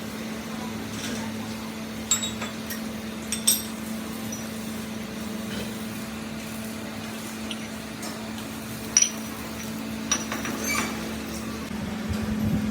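Metal clinking and tapping four times, each strike short and sharp with a brief high ring, over a steady low hum.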